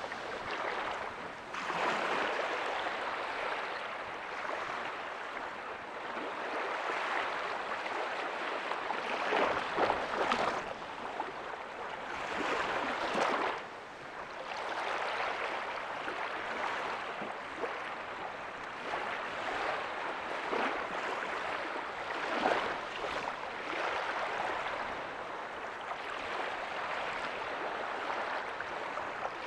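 Ocean waves breaking softly on a beach: a steady wash of surf that swells and fades several times, with louder surges about ten, thirteen and twenty-two seconds in.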